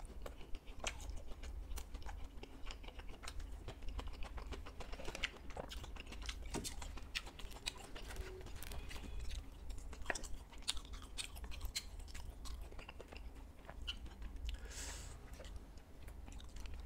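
Close-up chewing and biting of crunchy fried fish balls, irregular crisp crunches and mouth clicks.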